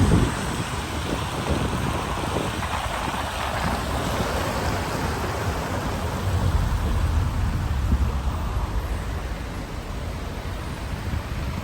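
Steady rain falling on a city street, with a low rumble underneath.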